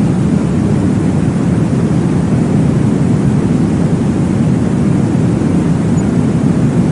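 Steady low whooshing noise, heaviest in the bass, made to imitate the sound heard inside the womb. It holds an even level with no clear pulse.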